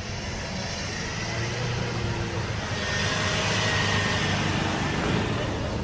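Car engine running, with a hiss of noise that grows louder about three seconds in.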